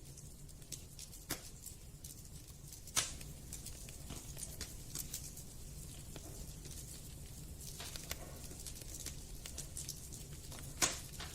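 Wood fire crackling with irregular snaps and pops, two of them louder, about three seconds in and near the end, over a steady low rumble.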